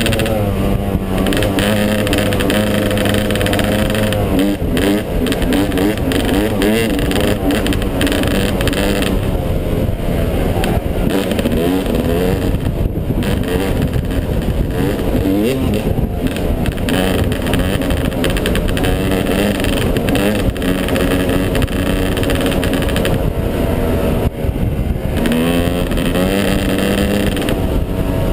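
Yamaha 250 dirt bike engine under way, holding a steady speed for a few seconds and then revving up and down again and again as the rider works the throttle and gears.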